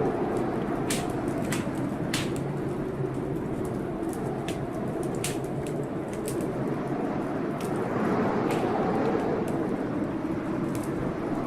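Wood fire crackling with sharp, irregular pops over a steady blizzard wind that rises and falls in a low howl.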